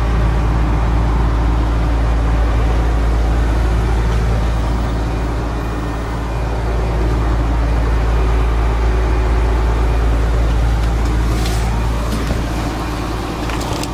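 Steady low rumble of the 2006 Ford Crown Victoria LX Sport's 4.6-litre V8 idling, heard from the back seat with a rear door open.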